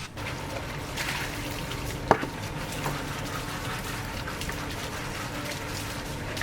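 Steady running, splashing water, with one sharp knock about two seconds in.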